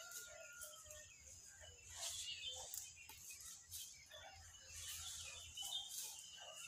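Faint bird calls: many short chirps and whistles from several birds, scattered and irregular.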